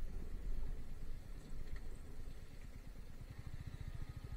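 Motorcycle engine running at low speed, a steady low beat of firing pulses that comes through more clearly in the second half.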